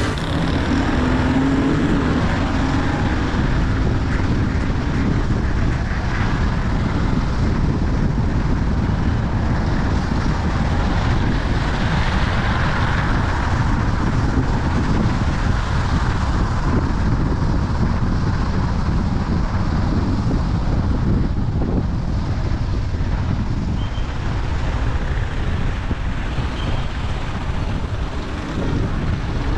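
Car driving along the road, with a steady mix of engine and road noise.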